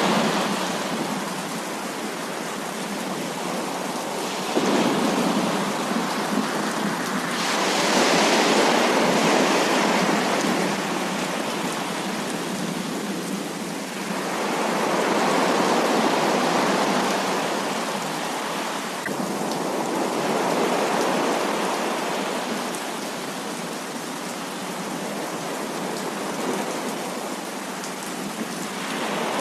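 Heavy rain falling in a steady hiss that swells louder and eases off in slow waves several times: about 5 s in, around 8 s, around 15 s and around 21 s.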